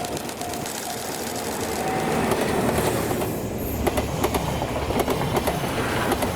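A train passing close by, its wheels clacking over rail joints, growing louder about two seconds in. Before it takes over, a level crossing alarm bell dings repeatedly, about twice a second.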